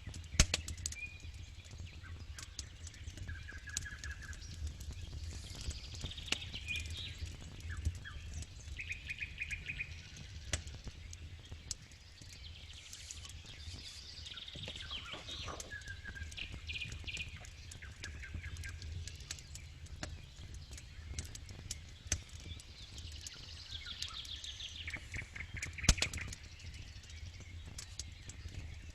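Campfire crackling and popping, with a sharp loud pop about half a second in and another near the end. Birds chirp and trill in the background.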